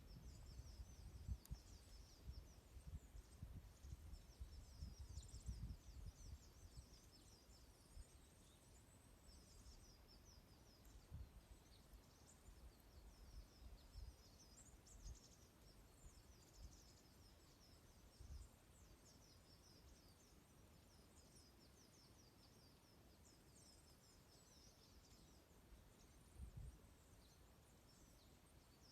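Faint, continual chirping and twittering of a flock of small birds, many short high calls overlapping. Low thumps come and go, thickest in the first few seconds.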